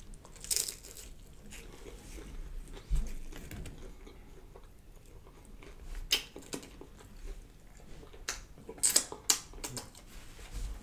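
Mouth sounds of a person chewing a bite of catfish fillet: scattered short, sharp wet smacks and clicks, with a quick cluster of them near the end.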